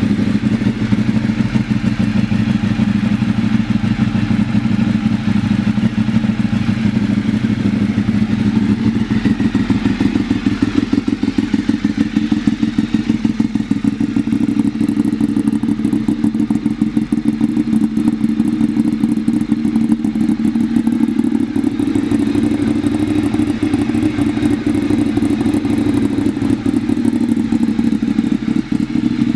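Ducati 848 EVO Corse's L-twin engine idling steadily through a Leo Vince full carbon fibre exhaust system, with an even, pulsing beat.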